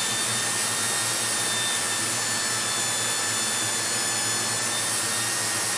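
Electric drill running steadily in reverse, winding old fishing line off a reel onto a rod held in its chuck; a steady high whine.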